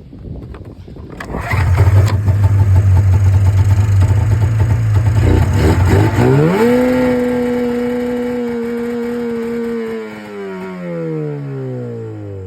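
Polaris 440 two-stroke snowmobile engine firing about a second in and running at a steady idle. About six seconds in it revs up and holds a higher note. Near the end the revs fall away. The engine has an intermittent fault: it only fires up every once in a while.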